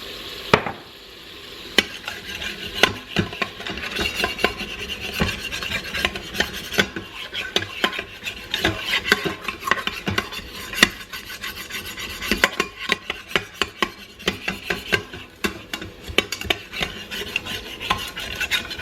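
A utensil scraping and stirring the bottom of an Instant Pot's inner pot in a little water, loosening the browned bits left from searing a beef roast: deglazing. A dense, irregular run of rasping scrapes and taps.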